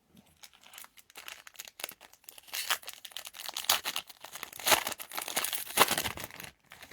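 Foil wrapper of a trading-card pack being torn open and crinkled, with the loudest crackling in the middle and latter part before it dies away near the end.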